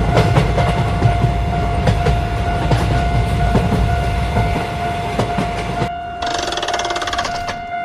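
Train passing as a sound effect, its wheels clattering over the rails with a low rumble, over a steady electronic tone. About six seconds in, the rumble stops and a short, rapid, higher-pitched rattle follows.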